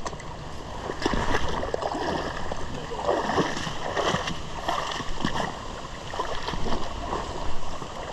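Shallow stream water splashing and gurgling in irregular bursts.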